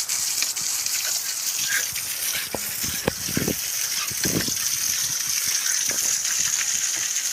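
Steady rush of water in a pool, with a few splashes about three and four seconds in.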